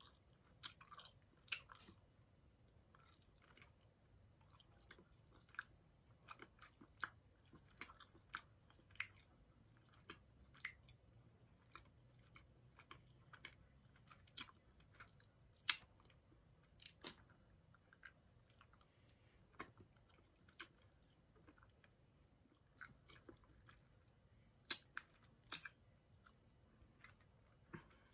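Faint mouth sounds of a person eating candy: irregular soft clicks and smacks of chewing and sucking, a few of them louder.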